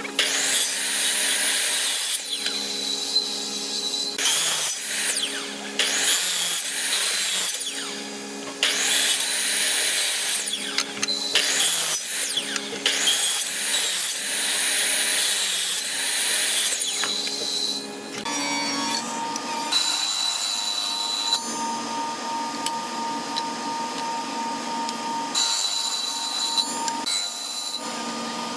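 Power tool working wood in repeated passes of a few seconds each, with a steady high whine from the running tool between passes.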